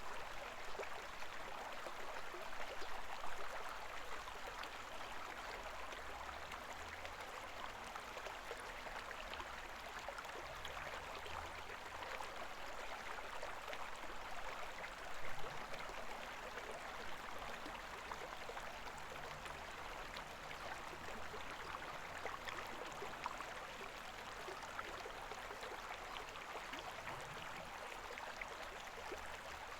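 Shallow river water murmuring steadily in a constant rushing babble, with a couple of brief low bumps about three and fifteen seconds in.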